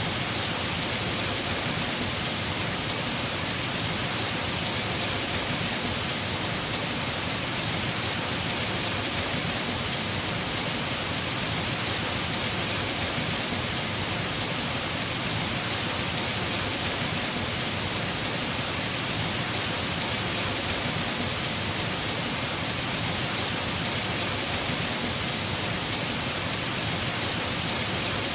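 Heavy rain falling steadily on a house roof: an even, unbroken hiss with no thunder or single louder drops standing out.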